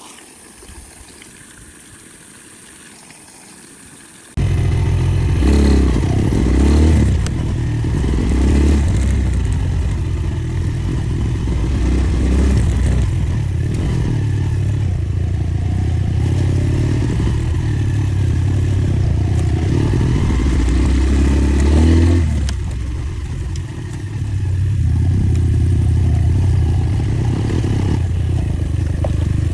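Enduro motorcycle engine running and revving, loud and continuous with its note rising and falling. It starts abruptly about four seconds in after a faint hiss, and eases off briefly about two-thirds of the way through before picking up again.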